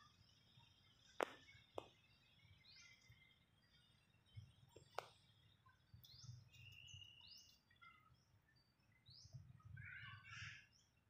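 Faint bird chirping: short rising chirps repeated every second or two, with a brief held whistle about seven seconds in. Three sharp clicks cut through, the loudest about a second in, another just after it and one about five seconds in.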